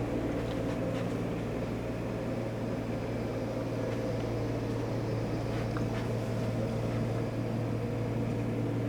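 Steady low mechanical hum of running equipment, even and unchanging throughout.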